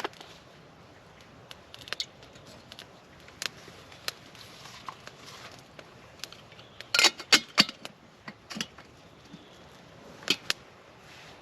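Camp gear being handled: scattered sharp clicks and knocks, with a quick run of four or five loud clacks about seven seconds in and another couple about ten seconds in.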